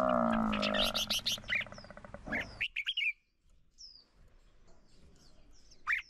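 Birds chirping in quick, high, falling notes over the fading end of a long, low, drawn-out animal call in the first second. Then a quiet stretch with one falling whistle, and more chirps near the end.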